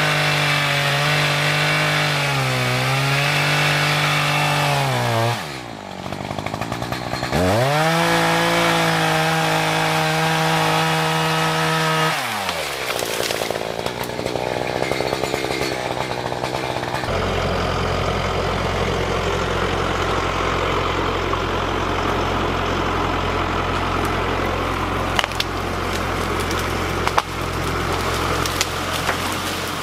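Two-stroke chainsaw run at full throttle through wood: the engine note sags as the chain loads up in the cut, then winds down twice, at about 5 and about 12 seconds in. After that comes rougher, noisier running, and from about 17 seconds a steadier, lower engine sound.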